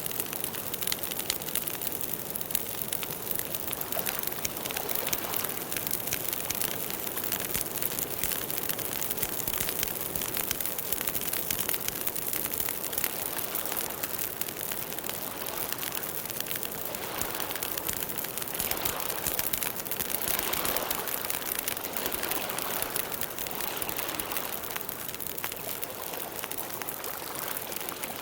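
Campfire burning, the wood crackling in a steady stream of small rapid pops and clicks over a soft hiss.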